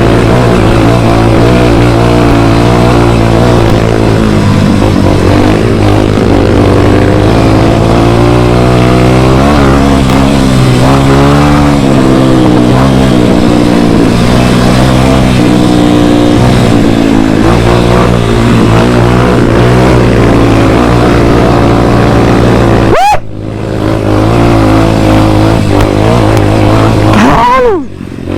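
Motocross bike engine running hard and steadily, its pitch rising and falling with the throttle. The throttle is snapped shut twice near the end, and each time the engine revs quickly back up.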